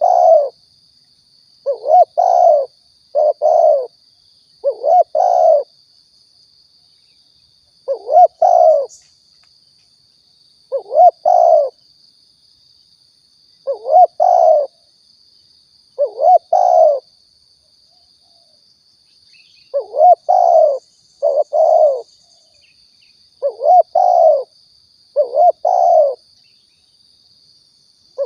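Spotted dove (tekukur) cooing: short phrases of two or three low, throaty coos repeated every two to three seconds, with a faint steady high-pitched whine behind them.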